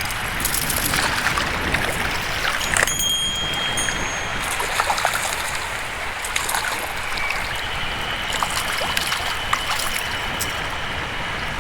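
Mountain stream rushing steadily over rocks, with a few scattered clicks and knocks.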